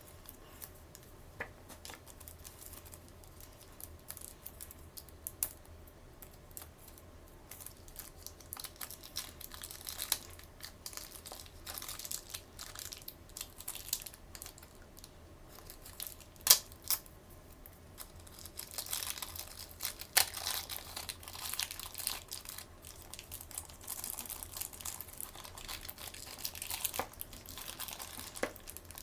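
Toy packaging being handled by hand: crinkling and tearing with scattered sharp clicks and taps. The crinkling gets busier about two-thirds of the way through.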